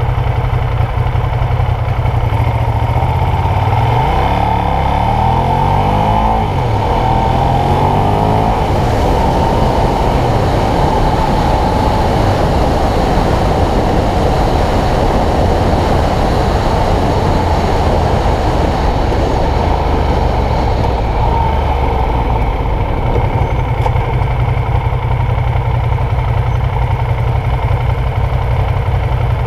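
Ducati Diavel's V-twin engine heard from on board: pulling away hard and revving up through the gears in a series of rising sweeps, then running steadily at speed, and easing off to a steady idle near the end.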